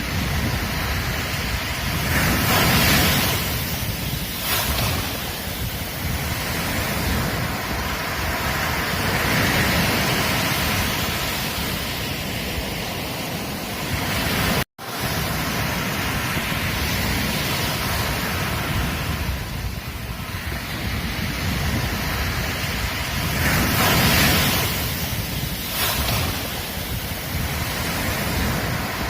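Ocean surf washing onto a beach, a steady rush that swells as waves break and eases between them. The sound cuts out for an instant about halfway through, then resumes.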